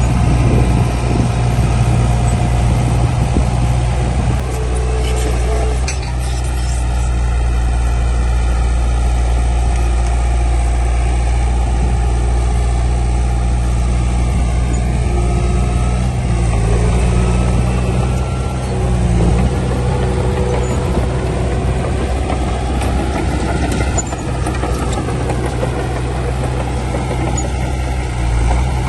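Heavy construction machine's diesel engine running steadily, a deep continuous drone whose note drifts a little as the machine works.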